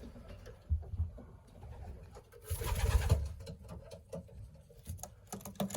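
Racing pigeons cooing in a loft, low and rumbling, with a short rustling burst about halfway through.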